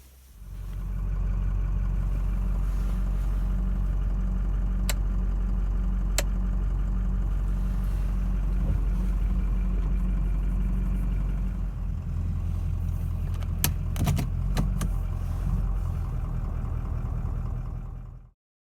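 An engine running steadily, with a few sharp clicks over it; it cuts off abruptly near the end.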